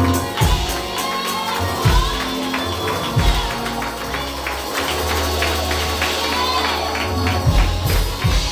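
Live gospel praise music from a church band: held keyboard chords and bass notes, a few heavy kick-drum hits, and a rhythmic tambourine.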